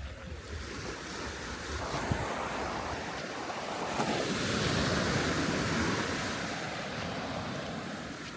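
Sea waves breaking on a sandy beach and washing up the shore, the surf building to its loudest about halfway through and then dying away. Wind buffets the microphone.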